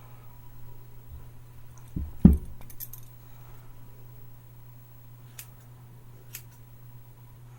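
Hair-cutting scissors snipping a few times as a person trims their own hair, with one louder knock about two seconds in followed by light clinks. A steady low hum runs underneath.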